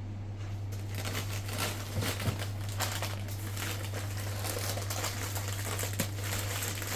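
Irregular rustling and crinkling handling noise, with a few sharper clicks, over a steady low hum.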